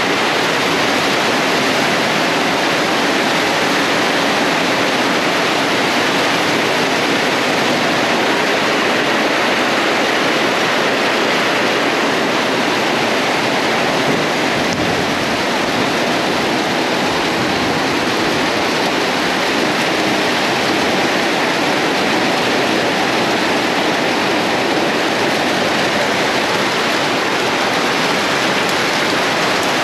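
Heavy rain pouring down on a corrugated metal roof and the ground around it, water streaming off the roof edge. A loud, steady rush that does not let up.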